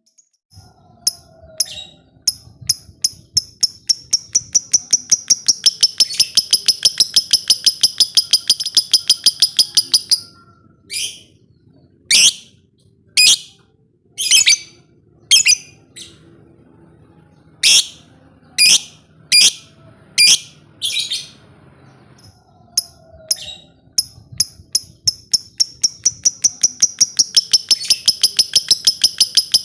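Lovebird ngekek: a long, rapid chattering trill of high notes, about five a second, breaking off near the middle into single loud calls spaced a second or so apart before another long trill starts.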